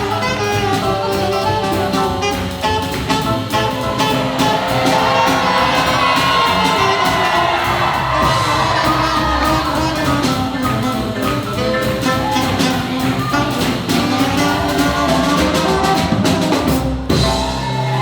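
Live swing jazz from a big band: horns playing over a drum kit's steady swing beat, with a brief break in the music near the end.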